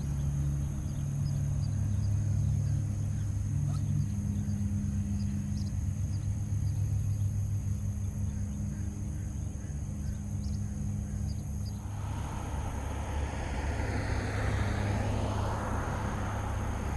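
Road traffic: a steady low hum, then a car going by with tyre noise that swells from about twelve seconds in.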